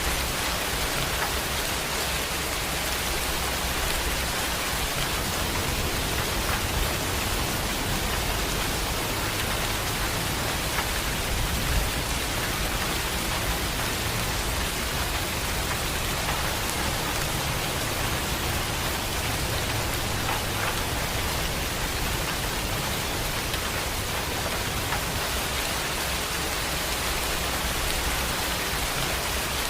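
Heavy rain falling steadily, a dense even hiss of drops, with a low rumble that swells through the middle and eases again.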